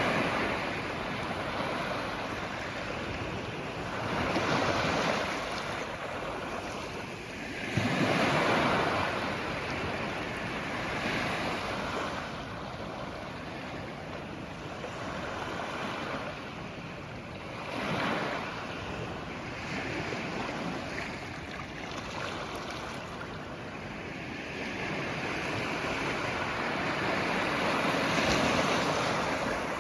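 Ocean surf: waves breaking and washing in a continuous rushing noise that swells and fades every few seconds. The louder breakers come about four, eight and eighteen seconds in, with a longer swell near the end.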